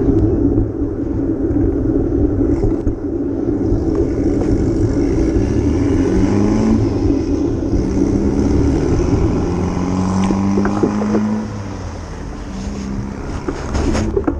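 Steady low rumble of road and wind noise while riding through traffic, with a vehicle engine rising in pitch and holding midway.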